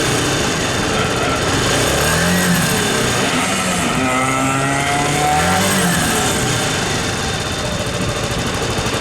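Kawasaki Estrella 250's air-cooled single-cylinder engine through its stock exhaust, blipped up and down a few times with one longer held rev in the middle, then settling to a steady idle near the end.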